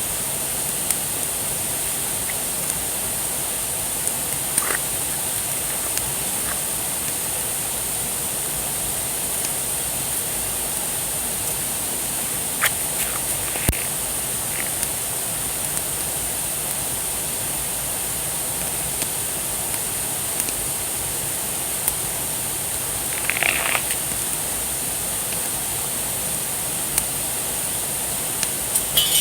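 Wood fire crackling, with scattered sharp pops over a steady hiss and a few short squeaks.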